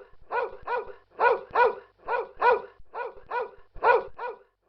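Dog barking repeatedly in a steady run of short barks, often in quick pairs, about two to three a second.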